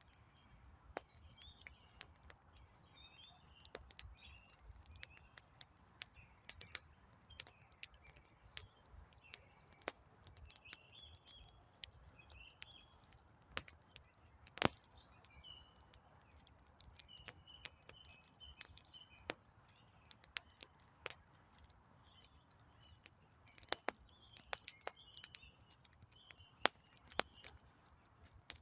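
Wood campfire crackling with irregular sharp pops, one louder pop about halfway through, while small birds chirp faintly in the background.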